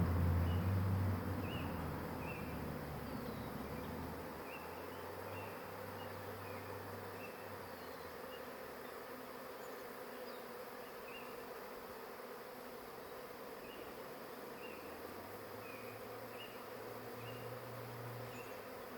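Honey bee swarm buzzing, a steady hum of many bees, with scattered faint high chirps over it. A low rumble fades away in the first few seconds.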